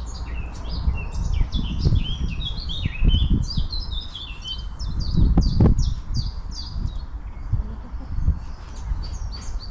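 Birds singing, a busy run of short, quick, falling chirps, over irregular low rumbles and thumps, the loudest about three and five and a half seconds in.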